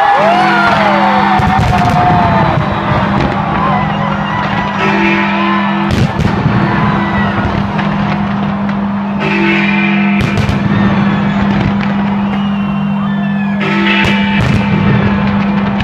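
Music from a fireworks display soundtrack, with a steady low held note and a pulsing higher note that comes and goes, and sharp firework bangs cutting through about four times.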